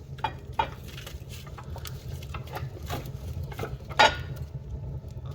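Burning firewood being pushed deeper into the open firebox of a cast-iron stove: scattered clinks and knocks of wood against the cast-iron firebox, with one louder knock about four seconds in, over a steady low hum.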